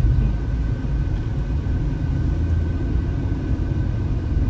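Car driving uphill, its engine and tyres making a steady low rumble heard from inside the cabin.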